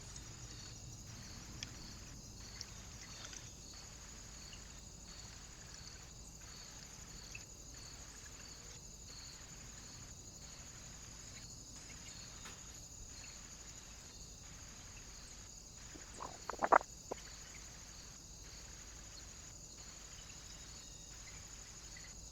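Faint steady hiss with a soft regular pulse about once a second, typical of a trail camera's own recording noise. A short cluster of sharp taps or knocks comes about 16 seconds in.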